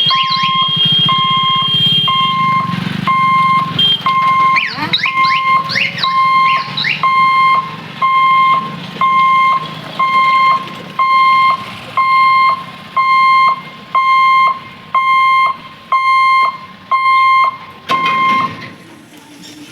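Electronic warning beeper of a railway level crossing gate sounding a steady high beep about once a second, then stopping near the end. Guitar-like intro music with gliding notes plays over the first several seconds.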